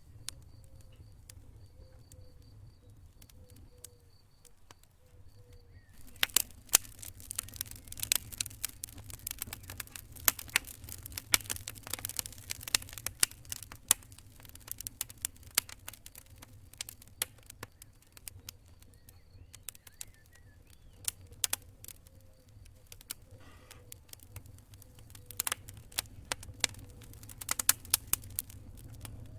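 Campfire crackling with sharp pops and snaps over a steady low rumble. The pops are sparse at first and turn dense about six seconds in.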